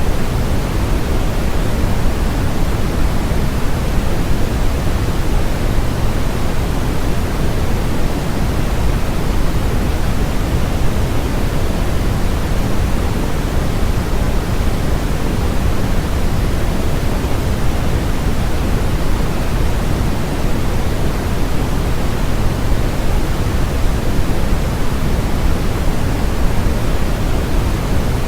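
Steady generated noise played as a white-noise track, an even unbroken hiss with its weight tilted toward the lows, so it sounds deeper than a bright hiss. It does not change at all.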